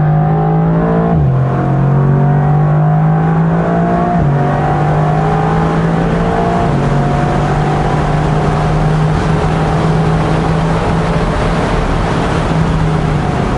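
Mercedes-AMG GT R Roadster's twin-turbo V8 under full acceleration, heard from the open cockpit with wind rushing past. The engine note climbs steadily and drops sharply at each upshift, most clearly about one and four seconds in.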